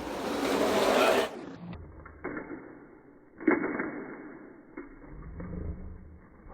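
Small plastic toy monster truck wheels rolling fast over a hard surface for about a second, then stopping. A single sharp knock follows about three and a half seconds in.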